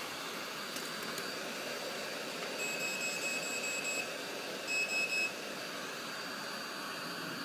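Steady blowing hiss of a hot-air rework station desoldering a small IC from a phone circuit board. A run of rapid high electronic beeps comes about two and a half seconds in, followed by three short beeps a second later.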